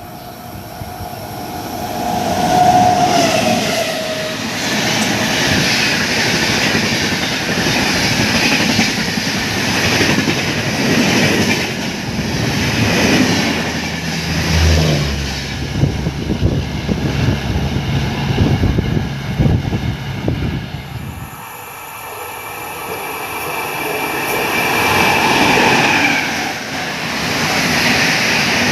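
Express train passing at high speed, its wheels clattering rhythmically over the rail joints under a loud, steady rush of noise. The clatter drops away about twenty seconds in, and a higher-pitched train noise builds again near the end.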